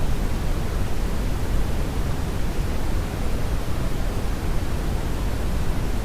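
Steady brownian noise: an even, deep rushing hiss, strongest in the bass and fading toward the treble, unchanging throughout.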